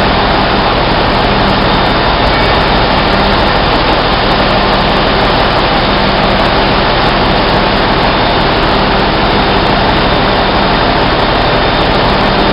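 Loud, steady roar of running engine-room machinery, with a constant low hum under it.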